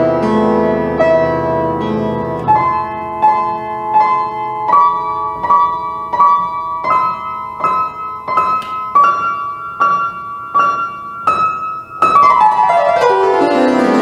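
Piano music: held chords at first, then a repeating figure of struck notes about twice a second, then a fast descending run into the bass near the end.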